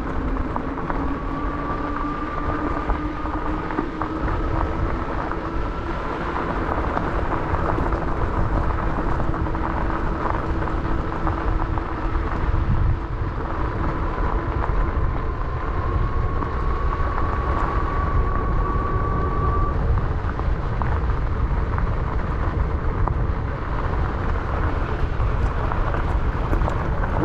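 E-bike's electric motor whining while riding a dirt road, its pitch rising slowly as speed builds, over a loud, steady low rumble of wind on the mic and tyres on dirt.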